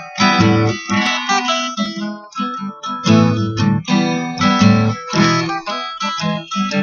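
Guitar strumming chords in a steady rhythm, an instrumental stretch of a song with no singing.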